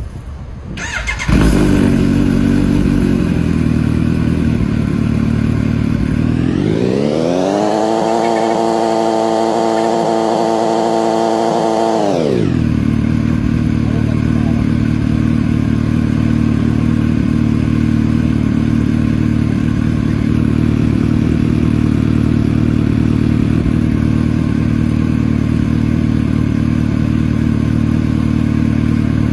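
Kawasaki Ninja H2's supercharged inline-four starting about a second in and settling into an idle. It revs up smoothly, holds at high revs for about five seconds, then drops sharply back to a steady idle.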